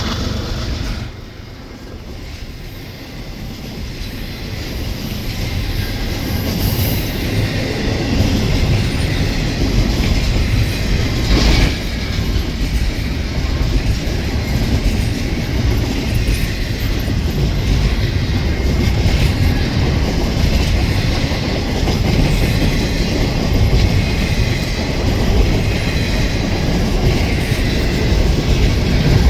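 A double-stack container freight train rolls past. The steady rumble of the cars is joined by wheels clattering over the rail joints. A train horn blast ends about a second in, then the rumble builds back up. A sharp clank comes about eleven seconds in, and there is light wheel squeal.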